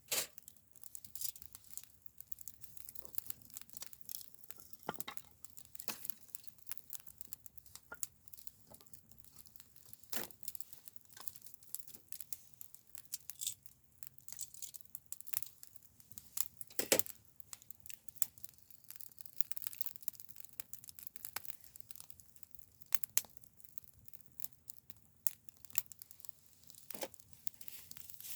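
Wood crackling and snapping in a small campfire: a steady scatter of small irregular crackles, with a louder pop now and then.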